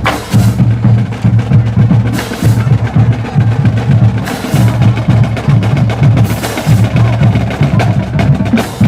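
Band playing a loud percussion-led number: rapid snare-drum strokes over pulsing low drum notes, with a bright crash about every two seconds.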